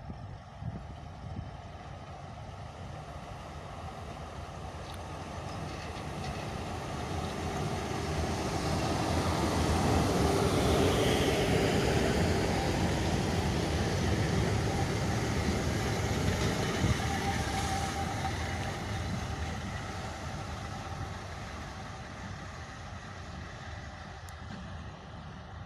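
Electric-locomotive-hauled train passing: the rumble grows louder to a peak about ten seconds in, then slowly fades away.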